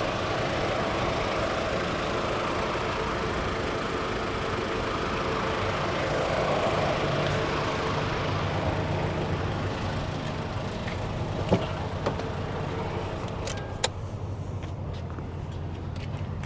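Toyota Hilux Surf's 2.4-litre 2L-TE turbo diesel engine running steadily, with a few sharp clicks near the end.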